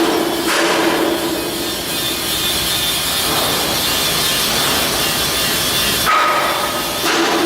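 A power tool grinding steadily, loud and continuous, with its tone shifting about half a second in and again near the end.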